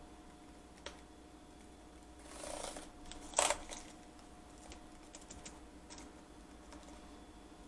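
Scattered clicks and taps on the Lenovo B575 laptop's keys and buttons while they are tested after the keyboard replacement: one click about a second in, a short rustle, then the loudest pair of clicks about three and a half seconds in, followed by a few light ticks. A faint steady hum runs underneath.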